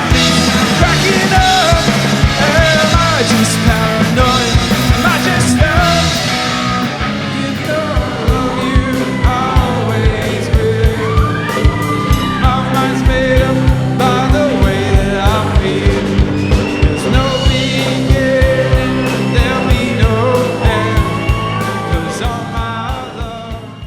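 Rock band playing live, with sung vocals over a steady drum beat and guitars; the sound fades out near the end.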